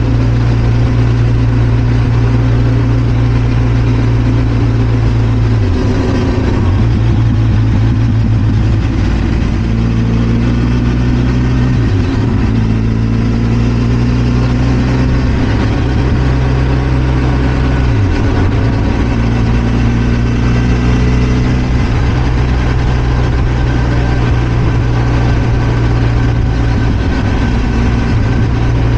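Benelli TRK 502 X's 500 cc parallel-twin engine running on the move at a steady, even pitch, with the note dipping briefly every six seconds or so.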